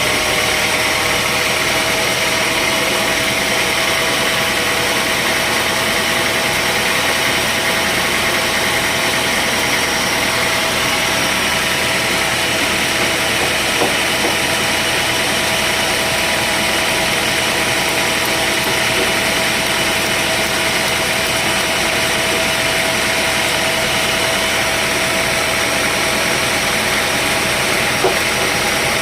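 Sawmill machinery running steadily: a constant mechanical drone with a steady whine that climbs slightly at the start, and a couple of faint ticks.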